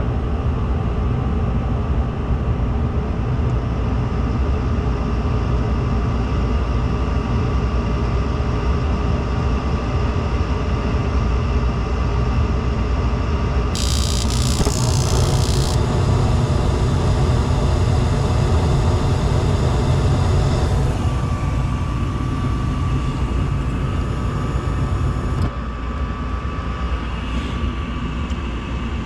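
Gas furnace running with its burners lit: a steady, loud low rumble. A brief hiss about halfway through, and the rumble eases a little near the end.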